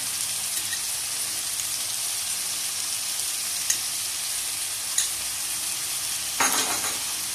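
Chopped onions and tomatoes sizzling steadily in hot oil in a pan, with a couple of sharp ticks of spattering oil and a brief louder sound near the end.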